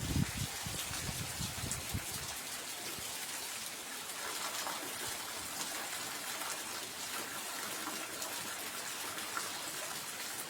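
Heavy rain falling, a steady hiss of water, with some low rumbling buffets in the first two seconds.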